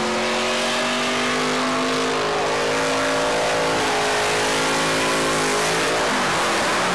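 Cadillac CTS-V's V8 engine held at high, fairly steady revs through a long drift, over a constant hiss. The engine note breaks up about six seconds in.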